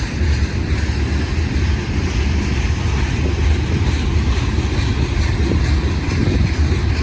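Freight train passing close by: a steady, loud rolling noise of wheels and cars on the track, with a heavy low rumble underneath.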